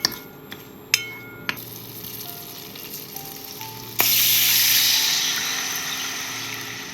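A few light clinks of utensils, then about four seconds in a sudden loud sizzle in a hot frying pan that slowly dies down.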